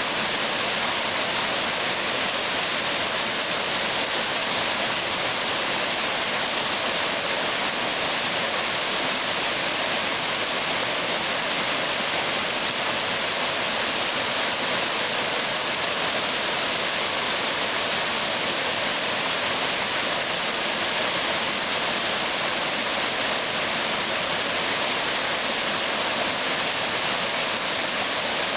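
Steady rush of fast-flowing white water, an even hiss with no change in level.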